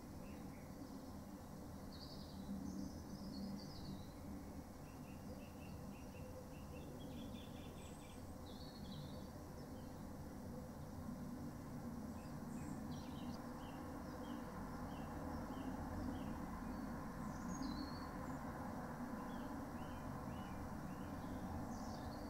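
Small birds chirping and trilling in short repeated phrases, over a steady low background noise.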